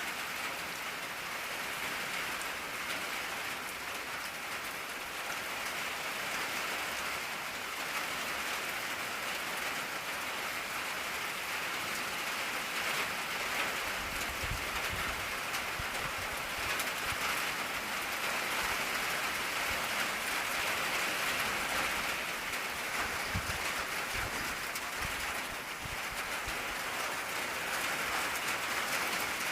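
Steady rain drumming on an old tin roof, an even patter of drops with no break. A few faint low rumbles come and go about halfway through.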